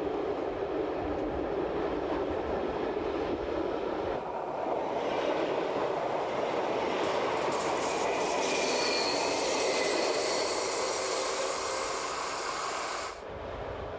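BLS RBDe 4/4 electric push-pull train running on curved track: a steady rumble of wheels on rail, with a faint high wheel squeal from about seven to eleven seconds in. The sound drops away suddenly near the end.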